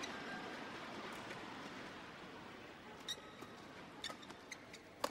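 Arena crowd murmur dying away, then from about three seconds in a handful of short squeaks from players' shoes on the badminton court, and one sharp crack of a racket striking the shuttlecock near the end.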